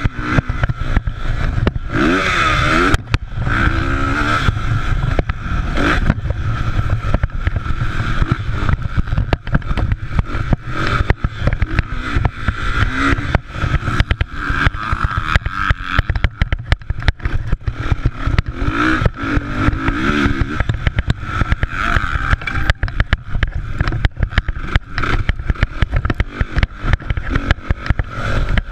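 Motocross bikes racing, their engines revving up and down in pitch as they pass. The sound is loud and choppy throughout.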